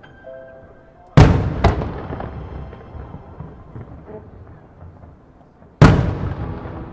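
Aerial fireworks shells exploding: two sharp bangs close together about a second in, then another loud bang near the end, each echoing away across the sky.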